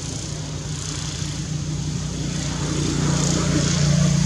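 A motor engine running steadily with a low hum that grows louder toward the end, as of a vehicle drawing near.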